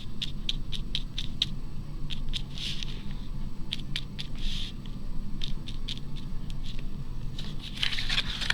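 Paintbrush pouncing ink onto paper: quick light taps of the bristles, about three a second, thinning out past the middle, with a soft brushing swish now and then.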